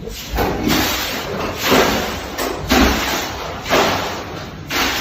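A run of loud crashes and bangs, about one a second, as things are thrown about in violent shaking that may be an earthquake.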